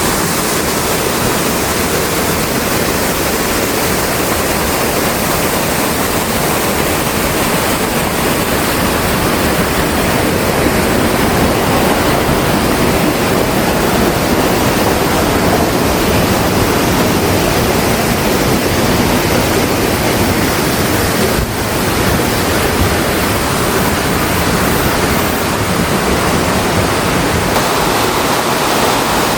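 Waterfall pouring into a rocky mountain gorge: a steady, loud rush of water with a brief dip about two-thirds of the way through.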